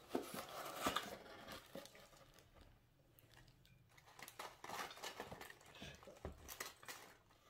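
Biting into and chewing a slice of stuffed-crust pizza: soft crunches, tearing and wet mouth clicks and smacks. They come in clusters about a second in and again through the second half.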